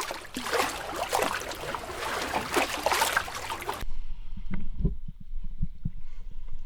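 Loud water splashing and sloshing with crackle close around the camera. About four seconds in it cuts to muffled underwater sound: a low rumble with scattered dull knocks.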